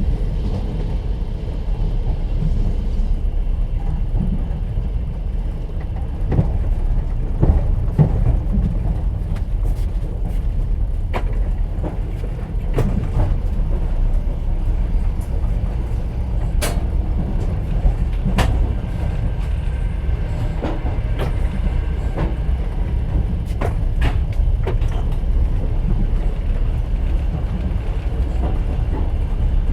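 Moving train heard from inside a platzkart sleeper carriage: the steady low rumble of the wheels on the rails, with scattered sharp clicks and knocks at irregular intervals.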